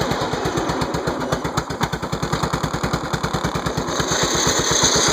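A 13.5 hp Briggs & Stratton Vanguard engine on a lawn tractor is running steadily with a rapid, even firing beat. A hiss joins in near the end.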